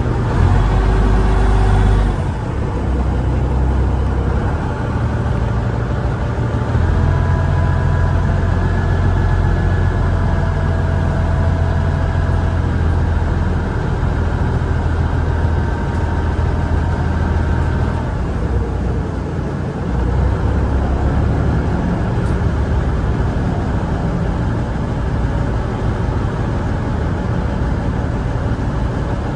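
An engine running steadily with a deep, continuous rumble, a faint whine coming and going over it.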